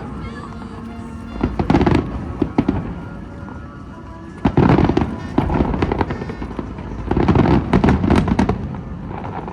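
Fireworks bursting overhead in loud clusters of rapid bangs and crackles, about one and a half seconds in, again around five seconds in, and again from about seven to eight and a half seconds, with a low rumble between the volleys.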